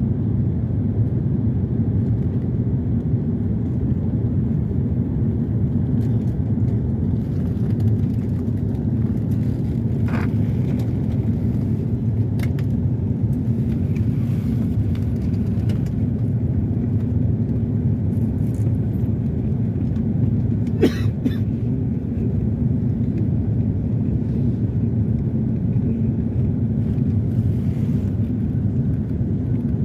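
Airliner cabin noise in flight: the steady low rumble of the engines and airflow. A couple of faint short clicks come through about ten and twenty-one seconds in.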